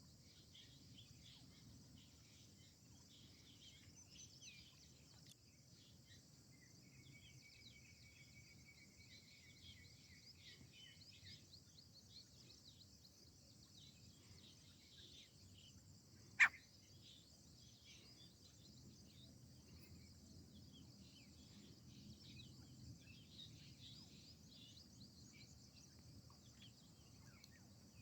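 Faint outdoor nature ambience: a steady high-pitched insect chorus under scattered small bird chirps, with a held trilling tone for a few seconds early on and one short, sharp, louder call about sixteen seconds in.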